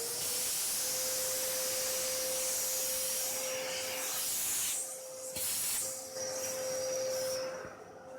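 Kärcher WD 3 wet-and-dry vacuum cleaner running at full speed: a steady motor whine under loud rushing air as it sucks up dust, the airflow dipping briefly a few times.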